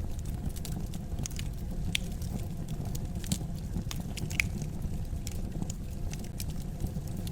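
Fire in a fireplace crackling: irregular sharp snaps and pops over a steady low rumble, with a few louder pops about two, three and four seconds in.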